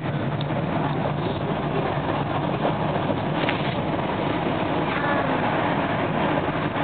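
Steady running noise inside a SEPTA electric regional rail car rolling along the track: the even rumble of wheels on rails and the car itself.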